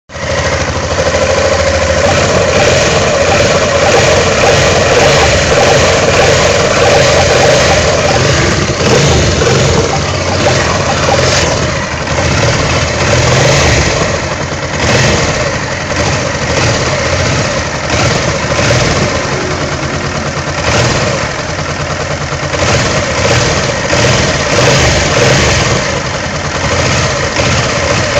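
Honda Transalp 700's V-twin engine running, its loudness swelling and easing as the throttle is worked, with a strange noise that the owner notices when the throttle is opened. A strong mid-pitched drone stands out over the engine for roughly the first ten seconds.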